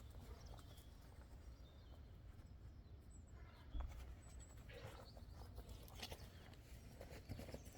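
Quiet outdoor ambience between wood chops: a steady low rumble, with a single faint knock about four seconds in and a few faint light taps and high chirps.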